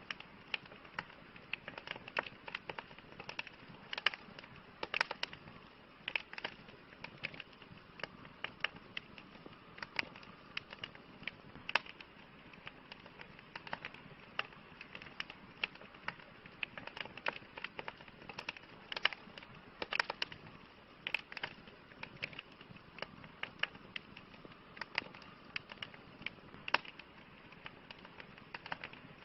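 Wood campfire crackling: irregular sharp pops and snaps over a soft steady hiss of burning.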